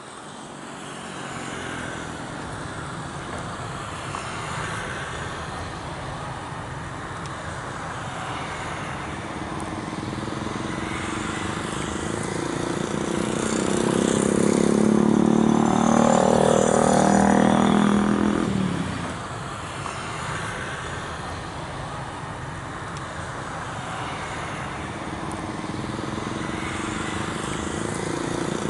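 Jet airliner engines during takeoff. The noise is steady, swells to its loudest a little past halfway as the aircraft passes, sweeps down and back up in pitch, then falls away quickly.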